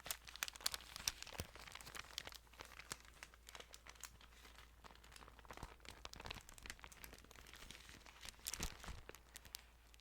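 Thin Bible pages rustling and crinkling close to the microphone as they are handled and turned, a run of small crisp paper sounds that comes in several busier flurries.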